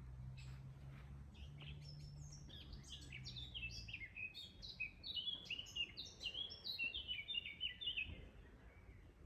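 A songbird singing a long, fast run of short falling whistled notes, starting a couple of seconds in and lasting about five seconds. A low steady hum sits underneath during the first few seconds.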